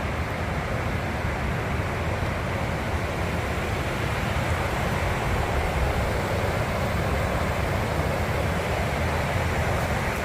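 Waterfall rushing steadily: a dense, unbroken noise of falling water with no rhythm or pauses.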